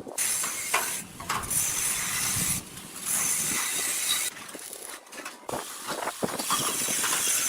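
Hissing spray from a pressurised nozzle, switching on and off in about four bursts, with a few knocks between them.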